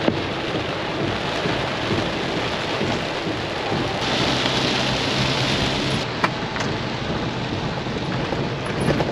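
Heavy rain beating on a car's windshield and roof, heard from inside the car as it drives through a downpour, with two sharp taps, one at the start and one about six seconds in.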